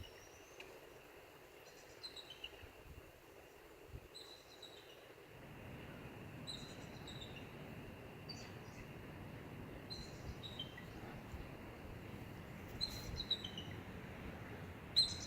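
Bird calling in short, high chirps that fall in pitch, one small group every second or two, over faint outdoor background noise.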